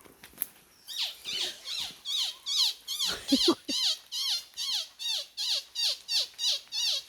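A fast, very regular series of chirping animal calls, about three a second, each with a wavy high note over a falling lower one, starting about a second in. A brief lower sound comes in about three seconds in.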